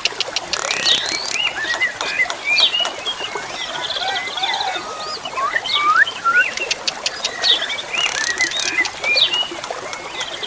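Jalak suren (pied starling) singing: a busy jumble of chirps and up-and-down whistles, broken twice by fast clicking rattles, once near the start and again about two-thirds of the way through.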